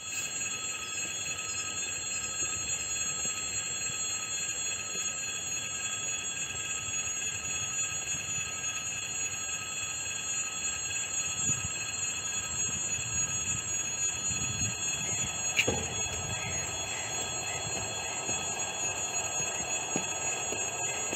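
Steady high ringing of several tones over a low rumble that builds from about halfway through, as an unseen train approaches on the rails. A single sharp click comes about three-quarters of the way in.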